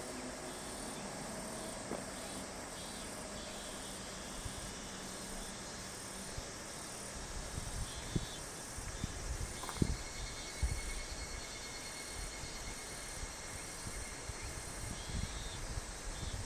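Insects calling in a steady high chorus with a regular pulsing texture, over a low hum that stops about six seconds in. From about seven seconds in, irregular low thumps come in.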